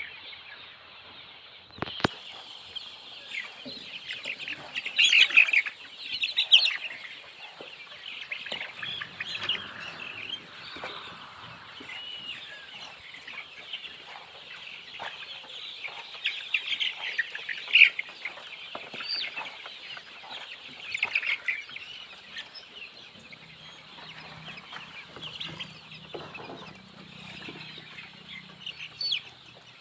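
A flock of desi chickens calling continually, many short high-pitched peeping and clucking calls overlapping, with louder bursts about five seconds in and again around eighteen seconds.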